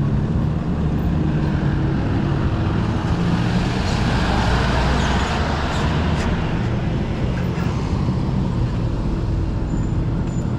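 Street traffic: the steady low rumble of motor vehicle engines, with a vehicle passing that swells and fades about halfway through.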